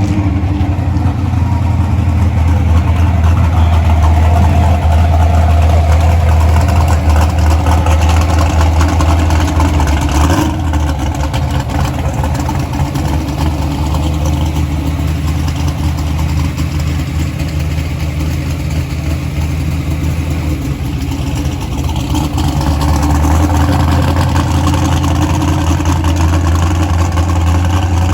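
Vehicle engine idling steadily and loudly, its note shifting slightly about ten seconds in and again a little after twenty seconds.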